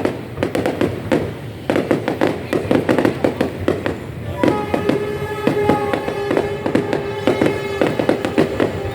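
Fireworks going off in a rapid, continuous barrage of sharp bangs and crackles. About halfway in, a steady held tone joins the bangs for a few seconds.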